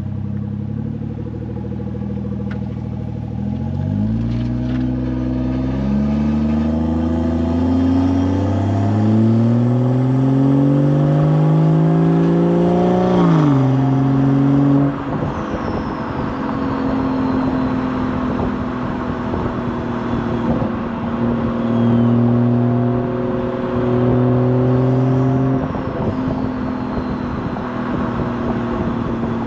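BMW Gen 1 B58 turbocharged 3.0-litre inline-six exhaust under acceleration, its pitch climbing steadily for about nine seconds before dropping sharply. After that the engine lifts off and settles at a lower speed, with a crackly burble in the exhaust on the overrun.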